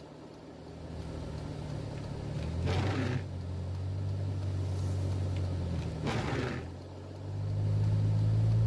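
Jeep Wrangler engine running under load during a rope recovery, heard from inside the cab. It rises in level near the end. Two short rushes of noise come about three and a half seconds apart.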